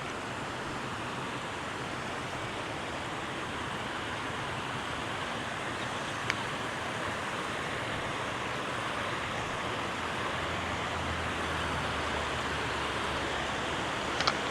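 Steady rush of flowing river water, with a sharp click about six seconds in and another near the end.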